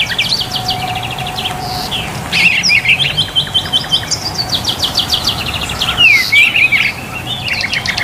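Songbirds chirping and trilling in quick runs of high notes, several birds overlapping, over a steady background hiss.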